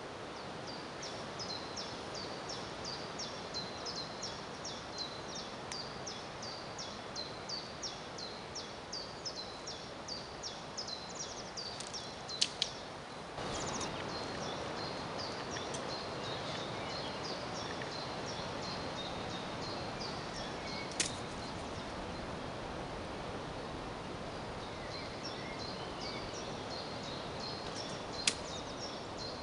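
A small bird repeats a short high chirp about three times a second over steady outdoor background noise. A few sharp clacks cut through it, the last of them an atlatl dart striking at the tin target.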